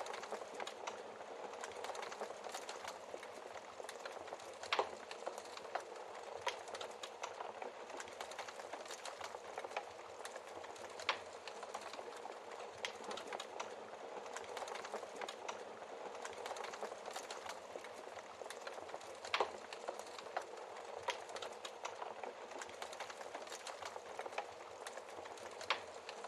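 Wood fire burning in a fireplace: a steady soft hiss with constant small crackles and a few sharper, louder pops from the logs.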